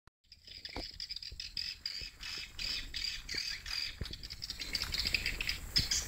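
Birds chirping with rapid repeated high calls, a few each second, growing busier near the end, with a few soft knocks among them.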